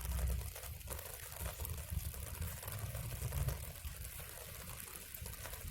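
Light rain falling steadily, with many small ticks and crackles, which fit raindrops and a small twig campfire burning, over a low uneven rumble.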